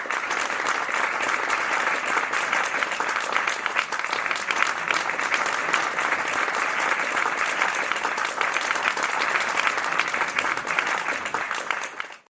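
Audience applauding and cheering at the end of a live song, a dense steady clapping that cuts off abruptly at the end.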